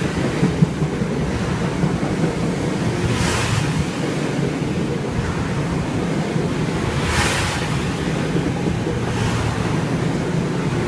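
Metro-North electric multiple-unit commuter train rolling past along the platform: a steady rumble and rush of wheels and traction motors, with a hiss that swells about every four seconds.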